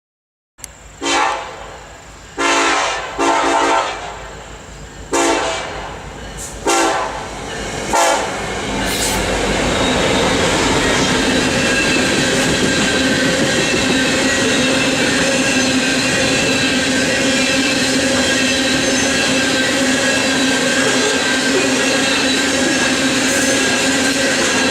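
A BNSF coal train's locomotive horn sounds about six blasts of different lengths over the first several seconds. Then the train rolls past loudly and steadily, the cars' wheels clattering and squealing on the rails.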